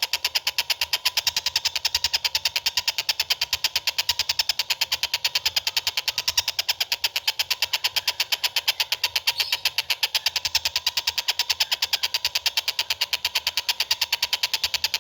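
A bird's call note repeated very fast and evenly, a continuous high-pitched rattling trill that holds steady without a break.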